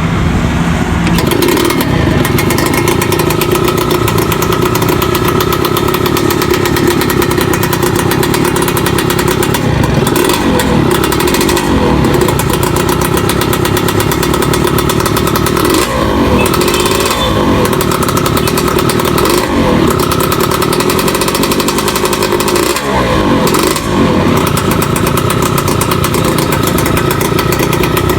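Yamaha F1ZR two-stroke engine idling through an aftermarket AHM Malaysia exhaust, with a handful of quick throttle blips that rise and fall from about a third of the way in.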